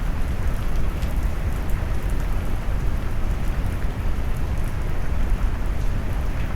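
Steady rain sound mixed with deep brown noise: a low, even rumble with faint scattered drop ticks high above it.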